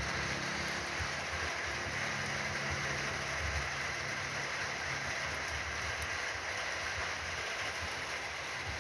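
Steady rain falling, an even hiss of drops across the scene. A low steady hum sits underneath for the first few seconds and fades out.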